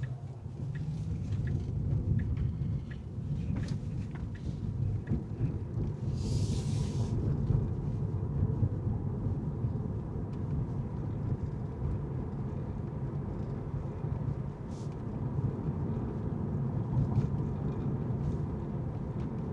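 Car driving on city streets: steady low rumble of engine and tyres, with a brief hiss about six seconds in and a few faint clicks.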